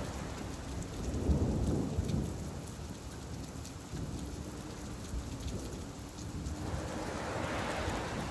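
Steady rain falling at the seashore, with waves washing in and a swell of surf building near the end. A deep rumble about a second in is the loudest moment.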